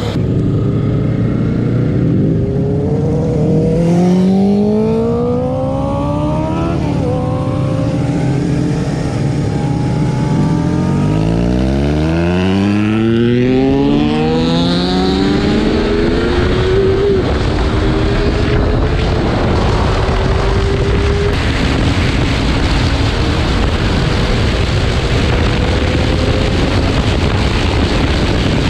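Motorcycle engine accelerating hard, its pitch climbing and dropping back at each gear change, then settling into steady running at speed under loud wind rush.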